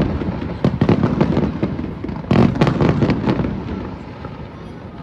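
Aerial fireworks shells bursting in rapid succession, many sharp bangs and crackles overlapping. A dense, loud cluster of bursts comes about two and a half seconds in, then the sound dies away over the last second or so.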